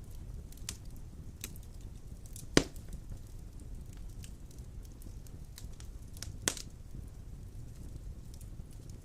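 Wood fire of large logs burning in a stone fireplace: a steady low rumble of the flames with scattered crackles and two sharp pops, the louder one about two and a half seconds in and the other about six and a half seconds in.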